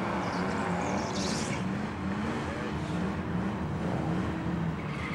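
Chevrolet drag car's engine revving through a burnout, its rear tyres spinning in smoke; the engine note wavers up and down, with a hiss over the first second and a half.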